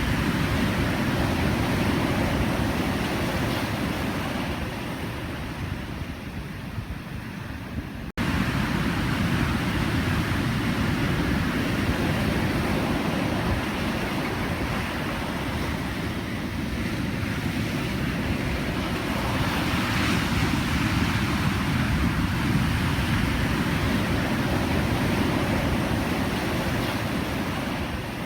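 Pacific Ocean surf: continuous waves washing and breaking, swelling and easing in loudness. About eight seconds in the sound drops out for an instant and comes back louder, like an edit splice.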